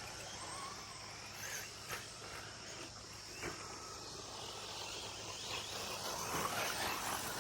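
Electric 1/10 short course RC trucks racing round the track: motor whine rising and falling as they accelerate and pass, with a couple of sharp clacks from trucks landing or hitting something. A steady high chirring of insects runs underneath.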